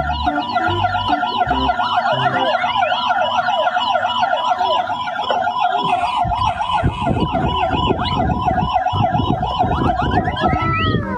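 An emergency-vehicle siren in a fast yelp, its pitch swinging up and down about three times a second, then sweeping down as it winds off near the end. A low, irregular rumble joins it from about halfway through.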